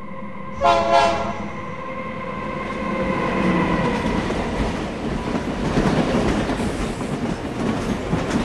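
A passenger train's horn blasts briefly about half a second in, then the train runs past with a rumble of wheels on the rails that grows louder.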